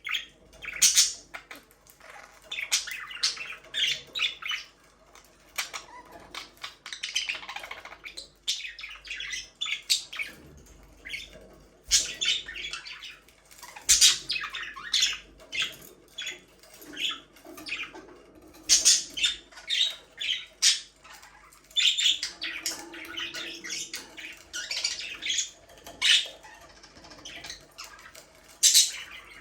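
Budgerigars chirping and squawking: a busy, irregular stream of short, sharp calls, several birds at once.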